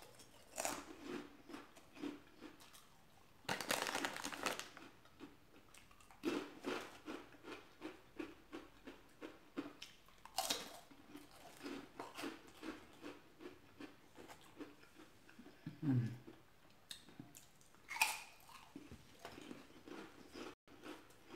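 A person chewing and biting tamarind candy: a steady run of small wet mouth clicks and smacks a few times a second, with louder bites about four seconds in, about ten seconds in and near eighteen seconds.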